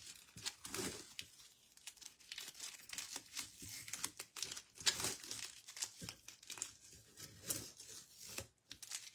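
Crinkling and rustling, a run of small irregular crackles, as something is handled.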